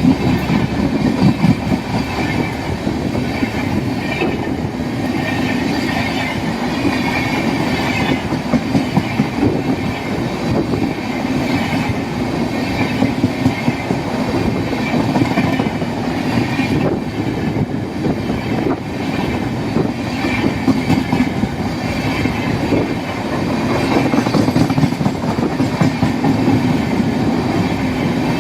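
Diesel-hauled train running along the line, its wheels clattering over the rail joints in a continuous run of knocks.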